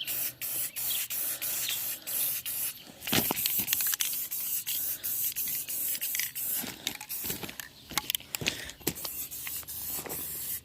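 Aerosol can of yellow spray paint hissing in many short bursts as it is sprayed onto a welded hand-truck axle part.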